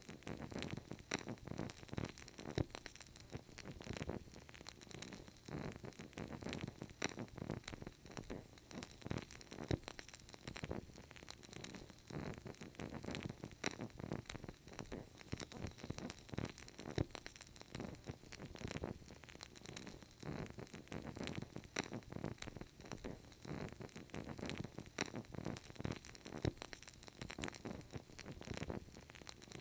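Burning candle crackling: a continuous, irregular stream of soft small pops and crackles, with no pauses.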